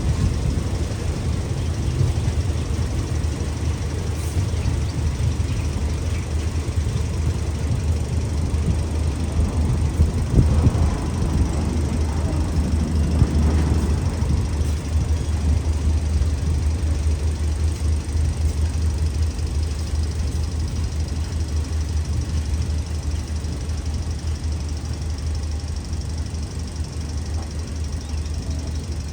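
Diesel-electric locomotive engine (Alsthom AD24C) running steadily with a deep, constant hum, swelling briefly about halfway through.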